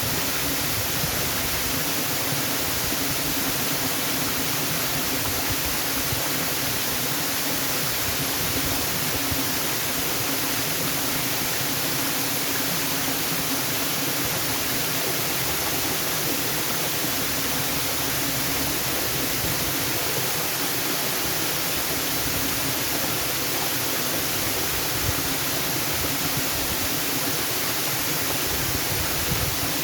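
Waterfall: a steady, unbroken roar of falling water with no changes or separate events.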